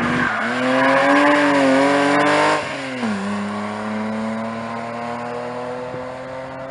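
Rally car engine held at high revs, then dropping sharply about two and a half seconds in, after which it pulls away with the pitch climbing slowly as it fades.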